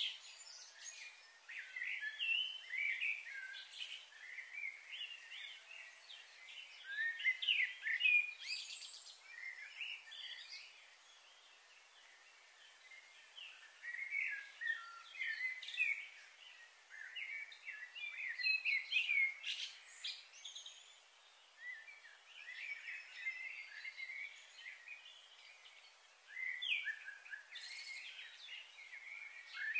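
Small birds chirping, many short calls in clusters with a quieter spell past the middle, over a faint steady hiss. A faint high steady whine stops about halfway through.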